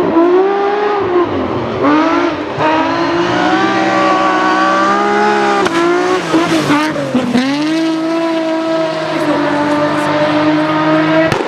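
Rally car engine running hard at high revs, its pitch climbing and then dropping sharply several times as it changes gear, with a deeper dip about seven seconds in before it pulls again.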